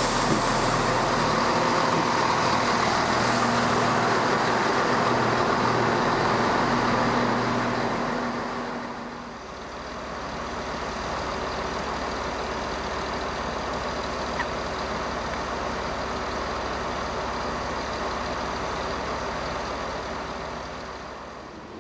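Class 168 diesel multiple unit's underfloor diesel engines running with a steady low hum. About nine seconds in the sound drops and changes to a lower, quieter hum that then holds steady.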